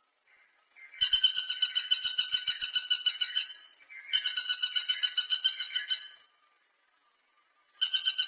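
Woodpecker calling: three fast rattling series of high, even-pitched notes, about eight notes a second, each series lasting about two seconds with short pauses between.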